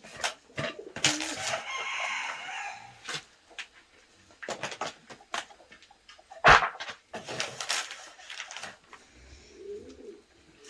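A rooster crowing once, about two seconds in, among scattered sharp knocks and clicks.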